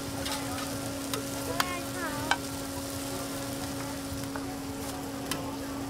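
Oyster omelettes sizzling as they fry on a large round griddle, with a few sharp clinks of a metal spatula against the pan and a steady low hum underneath.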